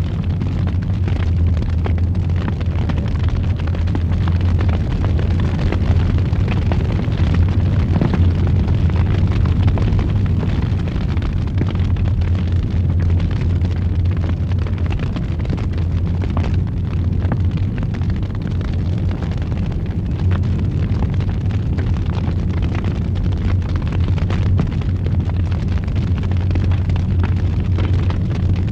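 Fire roaring steadily with a deep rumble, with scattered crackles and pops.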